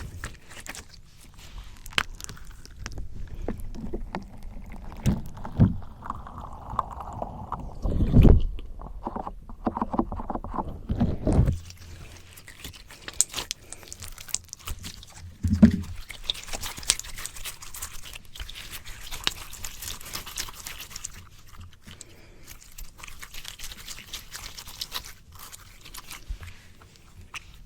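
Slime squished, pressed and pulled directly on a microphone: sticky crackling and small pops, with a few heavy low thumps where it is pushed against the mic in the first half, then a stretch of finer, brighter crackling.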